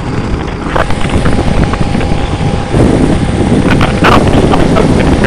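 Wind rushing over the microphone along with the engine and road noise of a motorcycle riding at highway speed. It grows louder about halfway through.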